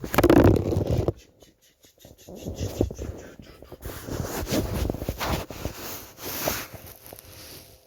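Handling noise from an ice-fishing rod and reel being grabbed and worked after a bite: a loud bump and rustle in the first second, then irregular knocks, scrapes and rustling.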